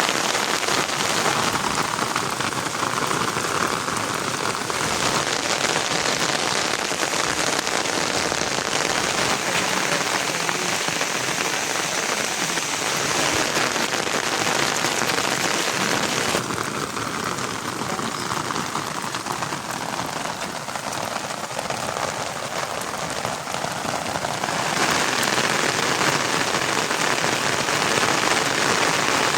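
Steady rain falling and pattering on surfaces, a dense even hiss whose texture changes abruptly a few times.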